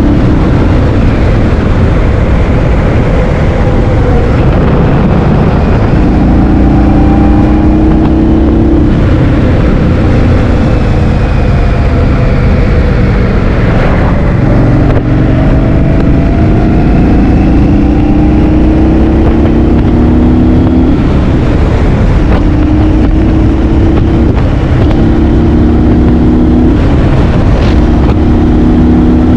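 Heavy wind buffeting on the microphone while riding, a loud, constant low rumble. Through it, a vehicle engine's steady tones fade in and out every few seconds, some rising or falling in pitch.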